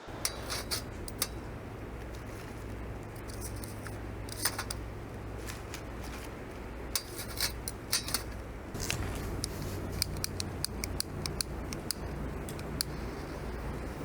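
Wood fire crackling, with sharp irregular pops and snaps over a steady low background rumble.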